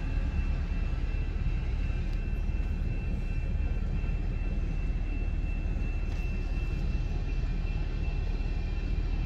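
Steel train's freight wagons rolling over a level crossing, a steady low rumble heard from inside a car waiting at the crossing, with a faint steady high tone above it.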